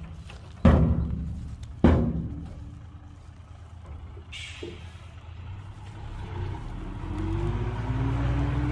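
Two heavy thuds about a second apart, a short hiss of air, then a diesel engine of heavy earthmoving machinery rising in revs.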